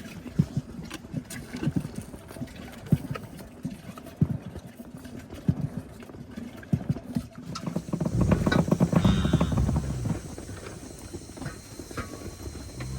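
Scattered knocks and clatter, then about eight seconds in a loud, low animal call lasting about two seconds.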